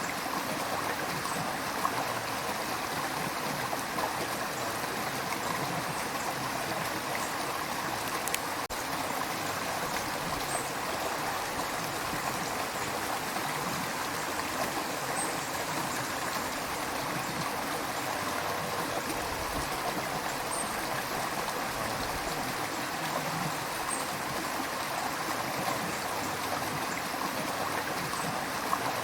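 A river flowing over rocks, a steady rush and babble of water with small splashes.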